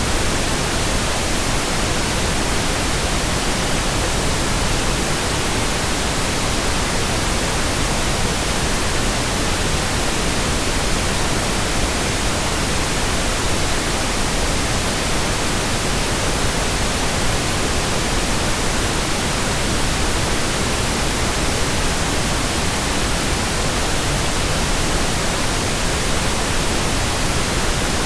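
Steady, even white noise: a constant hiss across all pitches that never changes, played as a sleep aid for babies.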